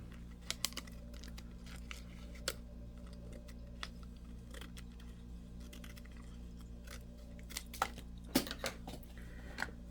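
Scissors cutting a laptop screen adhesive strip: scattered sharp snips and handling clicks, with a quick cluster of them near the end, over a steady low hum.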